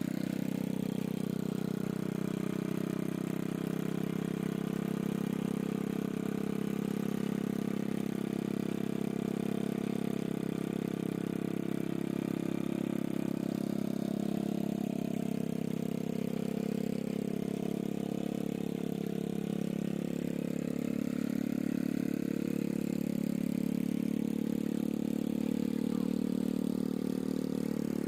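Small motorcycle engine running steadily at a fairly constant speed, driving a homemade water pump, with slight rises and falls in pitch.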